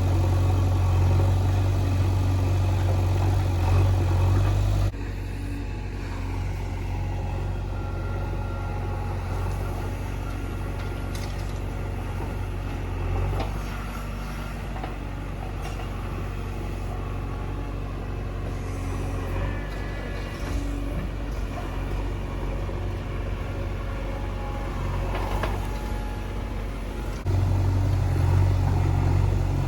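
Diesel engine of a backhoe loader running during loading work, loud for about the first five seconds, then suddenly quieter with a few faint knocks, and loud again near the end.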